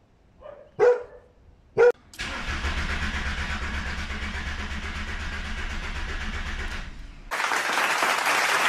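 Two short barks, then the Passat B4's 1.9 TDI four-cylinder turbodiesel starts and runs with a rhythmic diesel clatter for about five seconds. It cuts off abruptly to loud applause and cheering near the end.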